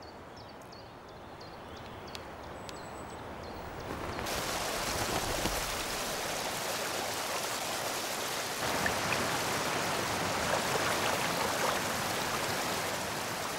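Mountain river rushing over stones: a steady rush of water that comes in about four seconds in and grows louder about nine seconds in. Before it, faint quiet ambience with a few soft ticks and a brief high whistle.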